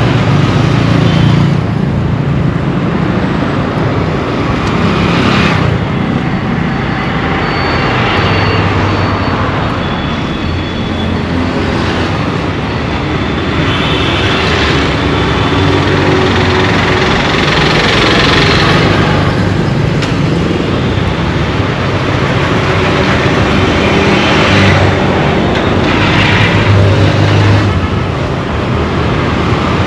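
Dense, loud road traffic on an Indian street: engines of passing vehicles running close by over a continuous rush of tyre and road noise, with brief high tones now and then.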